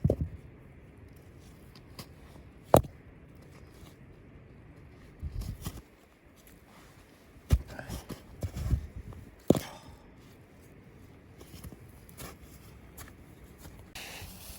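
Scattered knocks, scrapes and rustles of something being handled, with a sharp click about three seconds in and a cluster of knocks in the second half.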